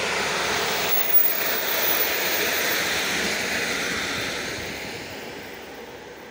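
Electric multiple-unit passenger train passing close by: an even rush of wheel and rail noise that holds loud for about four seconds, then fades away as the train pulls off.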